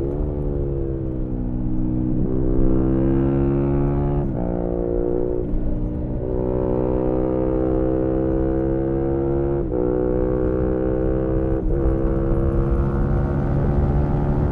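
2018 Yamaha MT-125's single-cylinder four-stroke engine with a GPR aftermarket exhaust, heard onboard while riding. The engine note rises and falls steadily, with several quick sharp dips in pitch at gear changes, over a low wind rumble.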